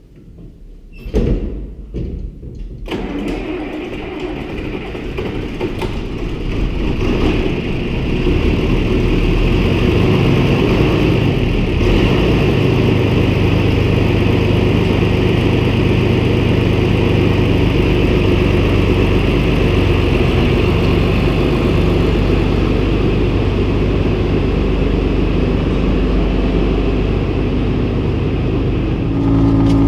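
An engine cranking and catching in the first few seconds, then running steadily, growing louder over the next several seconds before holding even.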